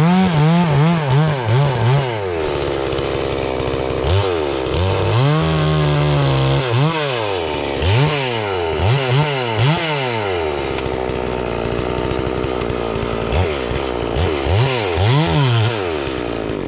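72cc two-stroke FarmMac F380W chainsaw at high revs, its engine pitch dipping and rising again over and over as it works through a poplar log, with stretches held steady at full speed. The engine sound cuts off suddenly at the very end.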